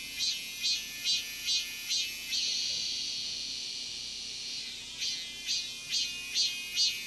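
Cicada singing: a pulsing call of about two notes a second, then one long steady note lasting about two seconds, after which the pulsing resumes.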